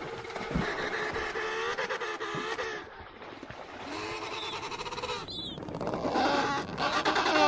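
Penguins calling: several overlapping harsh, pitched braying calls with a wavering pitch. The calls break off briefly about three seconds in, then resume with more birds, growing louder toward the end.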